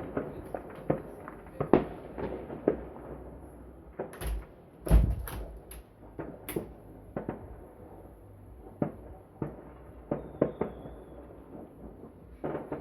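New Year's fireworks going off: irregular sharp bangs and pops of many shells and firecrackers, with the loudest, a deep boom, about five seconds in.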